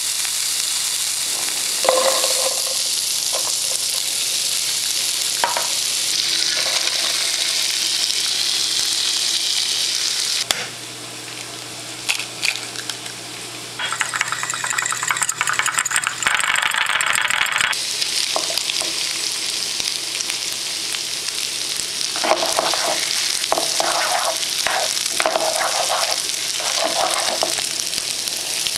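Garlic and ginger sizzling in hot oil in a nonstick frying pan. Partway through, a fork beats eggs in a glass bowl with a fast, even clatter for a few seconds. Then rice and vegetables sizzle again as they are stir-fried, with short stirring scrapes.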